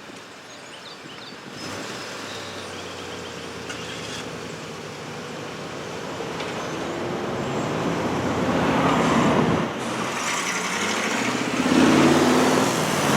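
Diesel freight locomotive approaching, its engine drone growing steadily louder.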